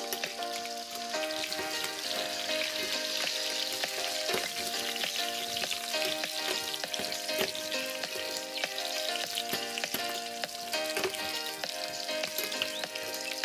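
Chicken pieces frying in hot oil in a stainless steel pan: a steady sizzle with many small crackles and spatters, while a metal spoon turns the pieces. Background music plays underneath.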